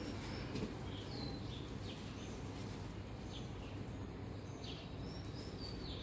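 A bird chirping in short high calls, some falling in pitch, repeated about once or twice a second over a steady low background rumble.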